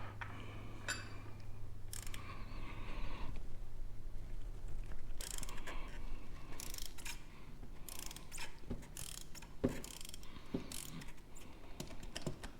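Hand ratchet clicking in short bursts while an oil filter cup socket loosens a motorcycle's oil filter cap, under a steady low hum.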